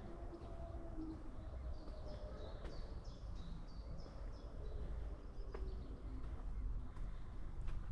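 A songbird singing a run of short, high chirping notes for a couple of seconds, a few notes a second, over a steady low rumble, with a few faint sharp ticks.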